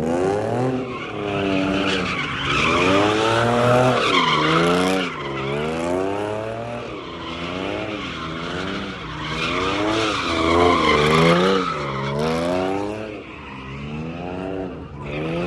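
A car spinning donuts at a street meet: its engine revs up and drops back over and over, about once a second, with the tires squealing and skidding.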